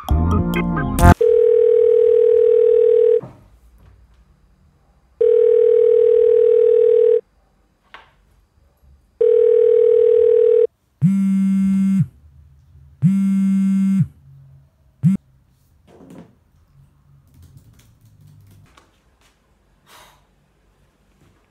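Telephone ringing tone heard on a call: a steady tone sounds three times, each about two seconds long with roughly two-second gaps, then two lower, buzzier beeps of about a second each, like a call-ended tone. Music cuts off about a second in.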